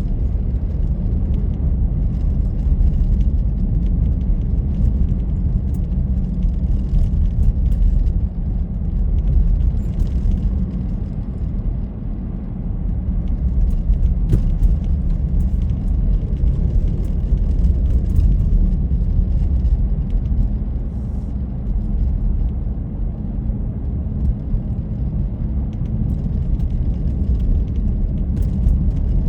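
Steady low rumble of a car driving, road and wind noise, with faint scattered light ticks.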